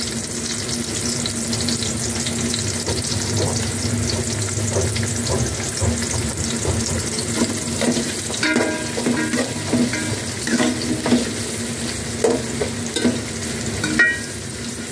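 Chopped garlic, ginger and onion sizzling in hot oil in a metal pot, stirred with a metal spoon that scrapes and clinks against the pot now and then.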